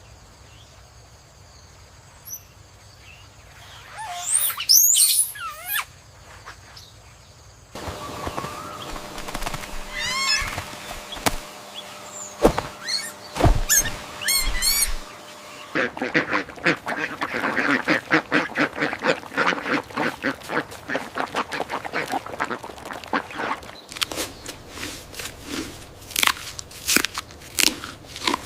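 A run of short animal sound clips with abrupt changes between them: high chirping and gliding calls, then a long stretch of ducks quacking rapidly and repeatedly, then sharp clicking sounds near the end.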